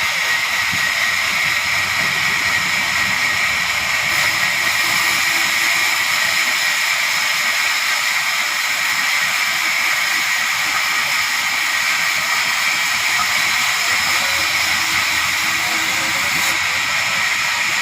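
Sawmill machinery running steadily: a loud, even whine and hiss with no pauses or changes.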